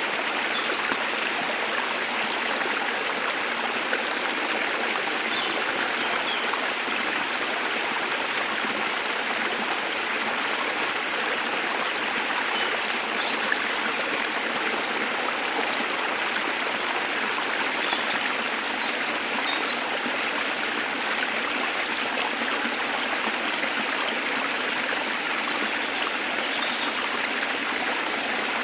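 Steady rushing of a waterfall's falling water, even and unbroken throughout. Faint short bird chirps come through high above it now and then.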